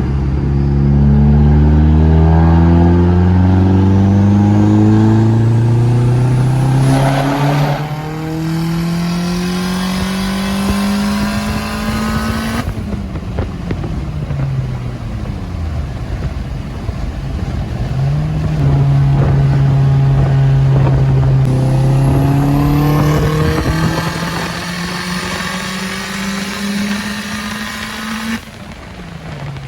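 Turbocharged Audi B5 engine under full throttle on a third-gear logging pull, its pitch rising steadily for about twelve seconds and then cutting off abruptly as the throttle is lifted. After a few seconds of falling revs, a second rising run builds and ends suddenly near the end.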